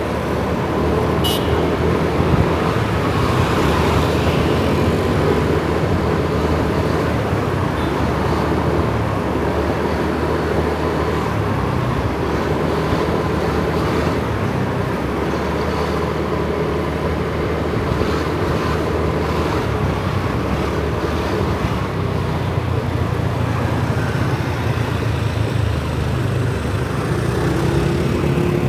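A Kawasaki ZX-4R's inline-four engine running while riding through city traffic, its pitch rising and falling with the throttle, with road and traffic noise around it.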